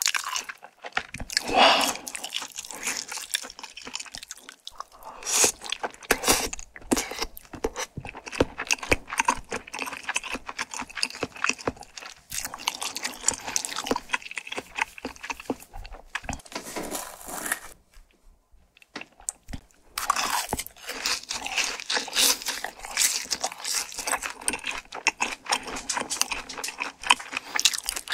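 Close-miked chewing of spicy tteokbokki, a run of wet, sticky smacks and clicks from the mouth. About eighteen seconds in the chewing stops for a couple of seconds of near quiet, then picks up again.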